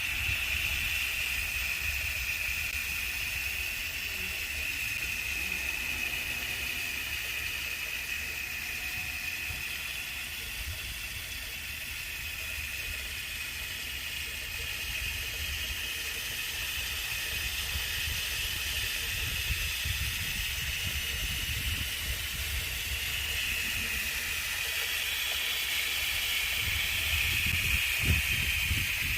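Steady hiss of water pouring in a small homemade waterfall, with a low rumble underneath.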